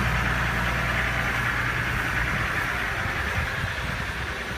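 2015 Ram 1500 EcoDiesel's 3.0-litre V6 turbodiesel idling steadily while it warms up from a cold start at about 9 °F with no block heater.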